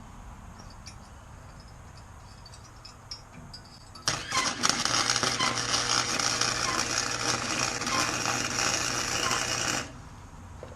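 Harbor Freight welder arc-welding steel for a tack weld: a loud, crackling arc that starts suddenly about four seconds in, runs for roughly six seconds over a steady low hum, and cuts off abruptly.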